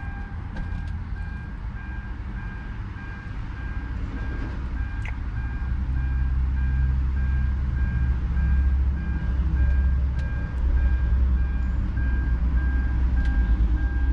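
An electronic beeper repeats short, evenly spaced beeps of one pitch, a few per second, over a low rumble that gets louder from about halfway in.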